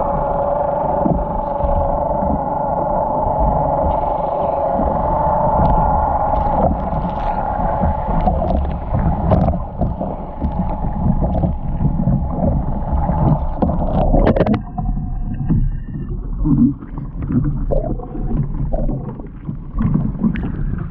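A motorboat's outboard engine running at steady revs, a droning hum over water splashing and rumble, cutting off abruptly about fourteen seconds in; irregular splashes and knocks follow.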